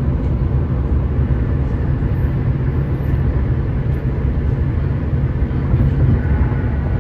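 Steady rumble of a car driving, road and engine noise with most of its weight in the low end.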